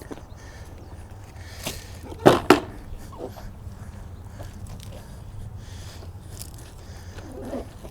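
Two sharp knocks in quick succession over a low steady hum, with a smaller click just before them.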